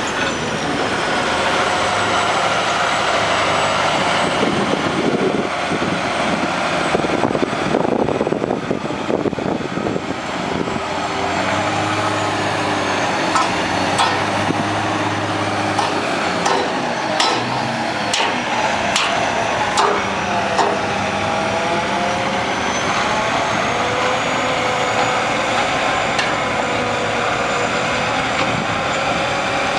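Heavy oilfield truck diesel engine running under load, its pitch rising and falling, with a series of sharp metallic clanks around the middle.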